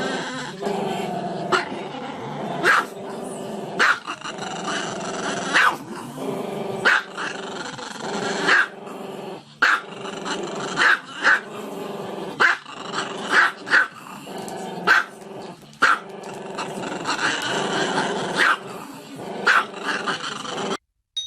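A dog growling continuously, with sharp barks breaking in about once every second or so. It cuts off abruptly near the end.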